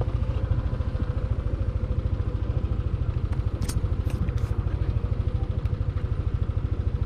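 Yamaha NMAX 155 scooter's single-cylinder engine running steadily, with an even, fast low pulsing and a few faint clicks near the middle.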